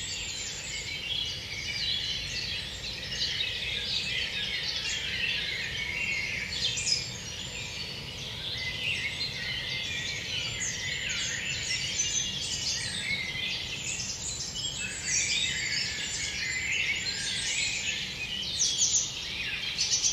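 Many forest birds singing at once, a dense chorus of overlapping chirps and trills, over a low steady background hiss.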